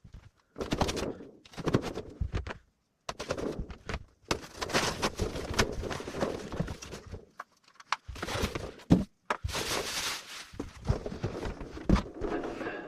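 A cardboard shipping box being handled as a portable 12 V fridge-freezer is worked out of it: irregular scraping and rustling of cardboard, with a few dull thunks.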